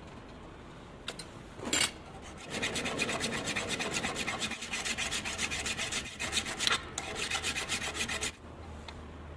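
Hand file rasping across the dovetail workpiece in a steady run of strokes for about six seconds, then stopping abruptly. A single short scrape comes just before it.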